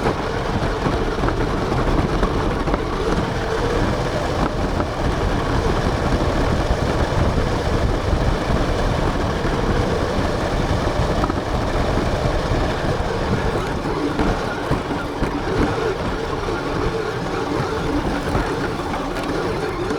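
Radio-controlled car driving, heard from an onboard camera: a steady rumble of tyres and drivetrain over the ground, with a wavering motor hum.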